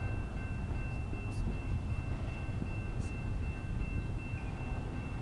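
BNSF intermodal freight train rolling past with a steady low rumble and a steady high-pitched squeal over it. Two faint clicks come through, about a second and a half and three seconds in.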